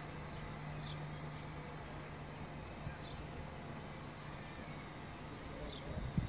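Small birds chirping in short, high calls over a steady low hum from a train, which fades out about two and a half seconds in.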